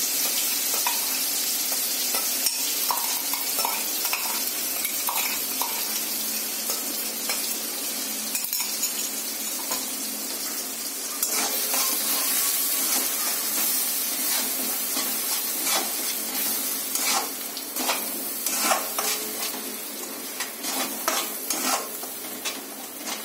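Onion-tomato puree sizzling as it fries in hot ghee and butter in a metal kadhai, while a metal slotted spoon stirs it and scrapes against the pan. The spoon's clicks and scrapes come thick and fast in the second half.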